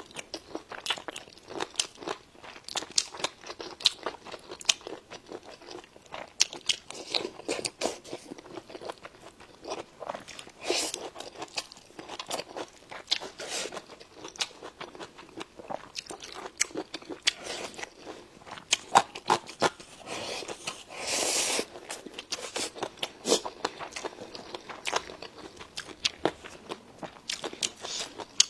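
Close-up chewing and crunching of crisp food, with many sharp bites and mouth sounds in an uneven rhythm. About two-thirds of the way through there is a noisier stretch of about a second.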